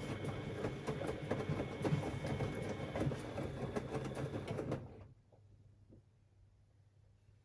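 Siemens Extraklasse XLs 140 A washing machine turning its drum during the wash, with a dense clatter and a steady high whine. The drum stops about five seconds in, leaving a faint low hum.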